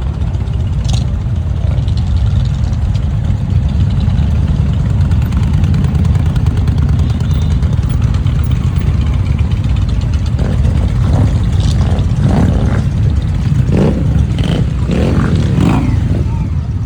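Motorcycle engines running with a steady low rumble, with some revving now and then in the second half.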